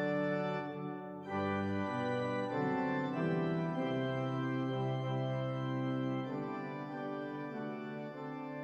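Organ music: slow, held chords that move to a new chord every second or two.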